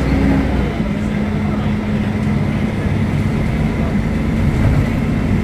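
Mercedes-Benz O500UDA articulated bus running steadily under way, its engine and drivetrain giving a continuous low drone with a steady whine.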